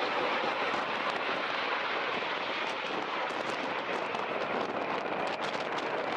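Steady rushing jet noise from Aermacchi MB-339 jets of the Frecce Tricolori, heard just after the formation and solo cross.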